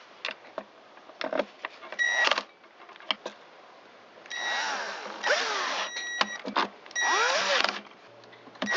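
Cordless screwdriver running in short bursts, driving the starter's screws into the blower housing, between clicks and knocks of handling parts and tools.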